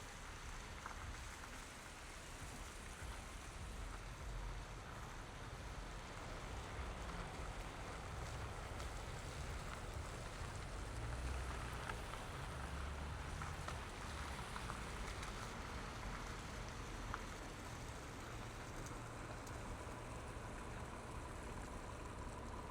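A car driving through city traffic on wet, snowy streets: steady tyre hiss with a low rumble, a few faint clicks, and a faint steady tone coming in near the end.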